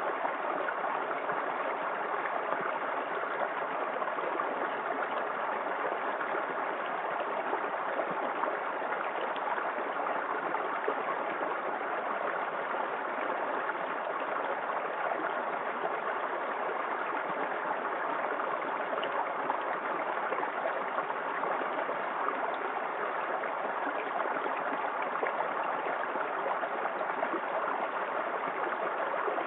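Small waterfall in a creek: water pouring and splashing in a steady, even rush.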